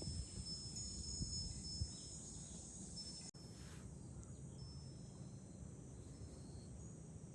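Cicadas droning steadily in a high, even hiss, while a wind chime (fūrin) rings now and then in thin high tones that linger for a second or more. Wind rumbles low on the microphone underneath.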